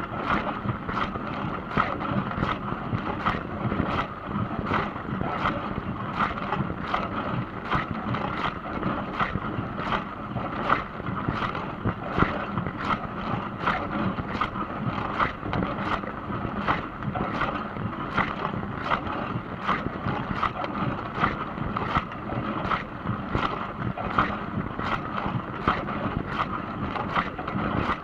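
Dishwasher running, water from the spray arms sloshing and splashing steadily against the inside of the tub, with irregular splashes a few times a second.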